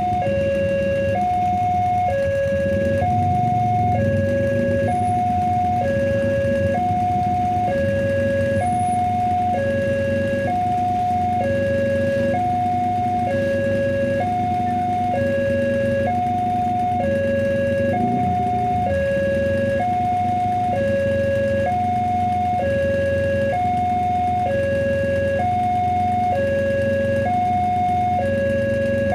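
Railway level-crossing warning alarm sounding a steady two-tone signal, a higher and a lower note alternating evenly about once a second, the sign that a train is approaching the crossing. A low rumble runs underneath.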